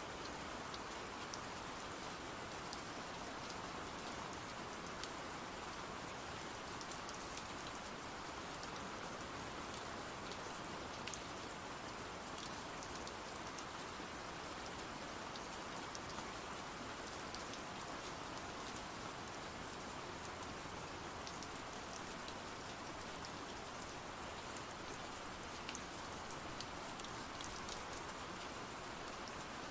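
Steady rain falling, an even hiss with scattered light ticks of individual drops.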